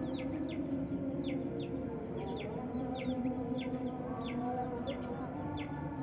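White-eye (pleci) calling in a quick string of short, high, falling chirps, a few each second, over a steady low hum.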